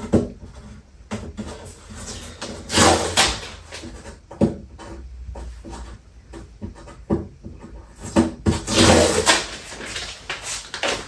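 Cardboard box and packing being handled and shifted, with rustling and scraping bursts and scattered knocks; the longest, loudest scrape comes near the end.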